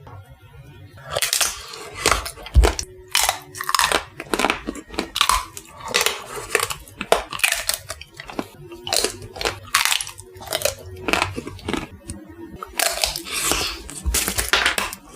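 Close-up chewing and crunching of a Dubai chocolate bar, its crisp shredded-pastry (kataifi) and pistachio filling crackling in short, irregular crunches with every chew.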